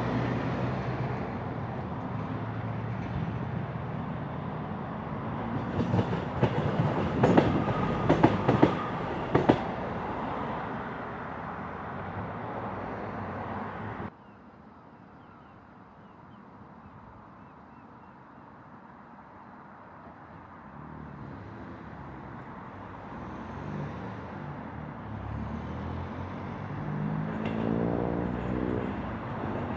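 Passenger train running past, with a burst of sharp clicks from its wheels over the rail joints. About halfway the sound cuts off abruptly. Another train then approaches, growing louder, with a note rising in pitch near the end.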